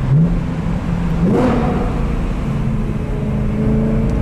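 BMW M3's S65 V8 accelerating, heard from inside the cabin. The engine note steps up right away, climbs sharply about a second and a half in, then holds and rises again near the end.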